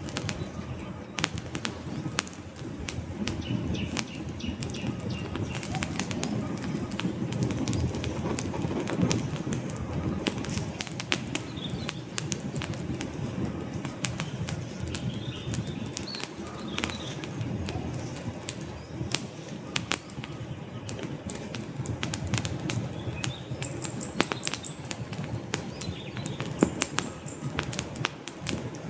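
Wood fire burning in a fireplace: burning logs crackling and popping in quick irregular snaps over a low, steady rumble of the flames.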